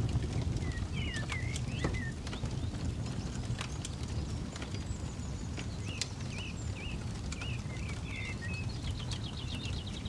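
Campfire crackling with scattered sharp pops over a steady low rumble, while small birds chirp several times and one gives a fast trill near the end.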